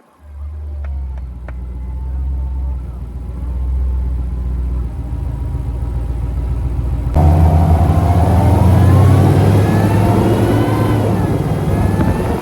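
Supercharged 5.7-litre Hemi V8 of a Dodge Charger R/T running with a steady low exhaust rumble. About seven seconds in it turns suddenly louder, with a supercharger whine rising and falling over the rumble as the revs change.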